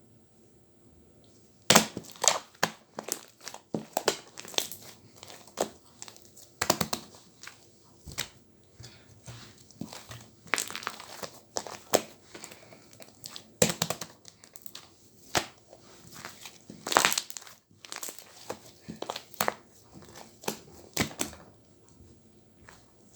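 Slime being squished and pressed, making irregular crackles and pops that start about two seconds in.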